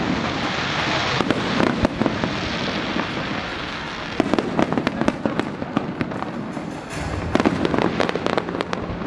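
Aerial fireworks display: many sharp bangs of bursting shells in quick clusters over a continuous hiss.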